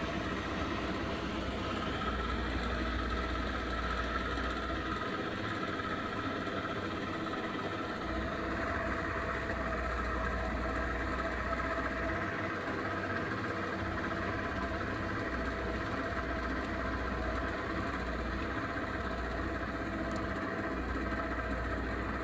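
Speedboat engine running steadily, with a low rumble that comes and goes underneath.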